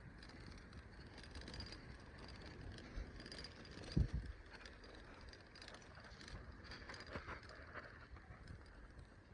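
Bicycle being ridden along a path: a low, steady rumble of the tyres, with one sharp bump about four seconds in.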